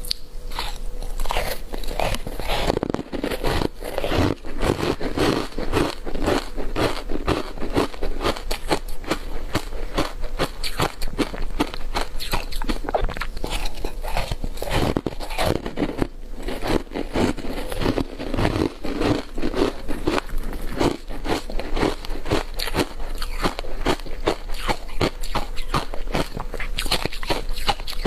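Ice coated in matcha green tea powder being bitten and chewed close to the microphone: rapid, crisp crunches one after another without a pause.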